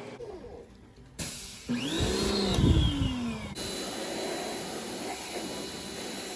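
Pressure washer being run: its motor whines up in pitch and winds back down over about two seconds, then a steady hiss carries on.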